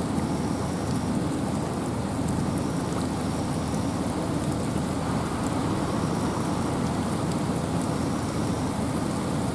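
Steady rain falling in a forest with wind, an even, unbroken hiss over a heavy low rumble.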